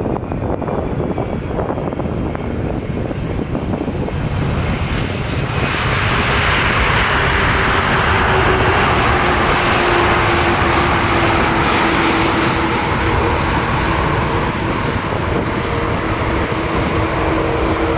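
Airbus A330 airliner's jet engines on landing approach. A broad roar swells about five seconds in and is loudest for the next several seconds as the aircraft passes, with a steady low tone that drifts slightly lower as it goes by.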